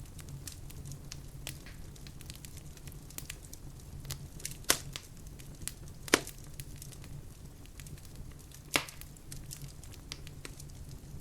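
Wood fire crackling in a fireplace: a steady low rumble of flames with many small snaps and three louder sharp pops.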